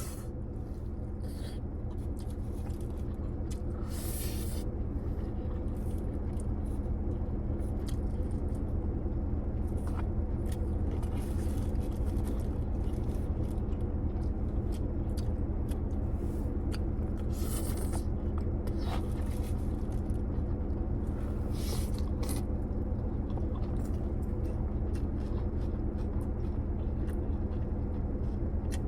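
Someone eating takeout: scattered scrapes of a utensil in the food container, and crunching and chewing, over a steady low hum.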